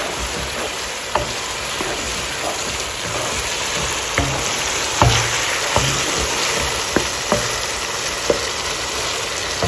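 Chicken pieces frying in oil and masala in a nonstick wok, a steady sizzle, while a wooden spatula stirs them, with a few sharp clicks as it knocks against the pan.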